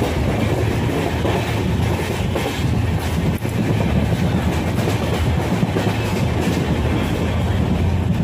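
Passenger train running at speed, heard from inside a coach by an open window: a steady low rumble of wheels on the track with a faint scattered clatter.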